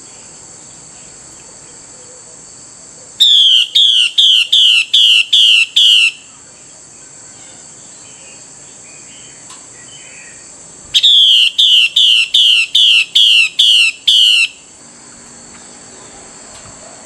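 Female Chinese hwamei giving its 'xùy' call, used to excite a male: two bouts of about eight quick, repeated downslurred notes, each bout about three seconds long. A steady high-pitched ringing, like insects, runs underneath.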